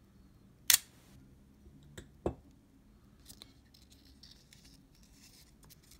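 Leica II D cloth focal-plane shutter fired once on the shutter release: a single loud, sharp snap about a second in, with its second-curtain spring slackened. Two fainter clicks follow about a second and a half later.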